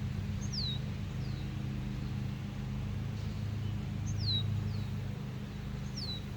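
A bird calling about five times with short, clear whistles that slide down in pitch, over a steady low drone.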